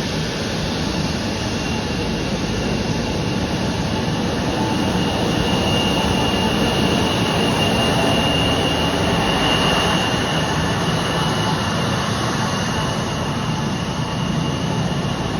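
Turbofan engines of an Embraer 170 jet airliner running with a steady high whine over a broad rushing noise. The whine and the overall level swell for a few seconds in the middle, then ease off slightly.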